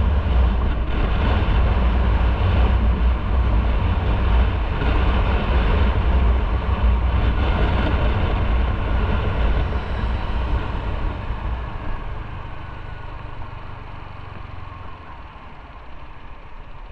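Motorcycle engine running while riding, with a heavy low rumble and wind noise, fading steadily over the last five seconds or so.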